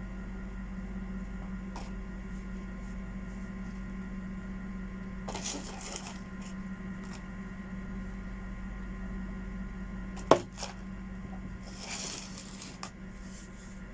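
Handling noises from a rotary hammer being worked on: scattered clicks and two short rustles, with one sharp knock about ten seconds in, over a steady low hum.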